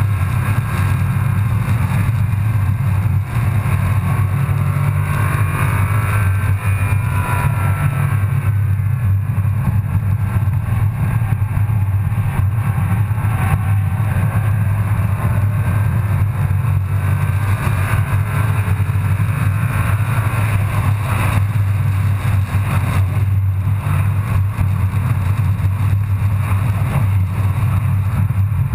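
Engine of a BMW 135i, a turbocharged inline-six, heard from inside the cabin under hard driving on a race track, its pitch rising and falling with acceleration and gear changes over a steady low drone.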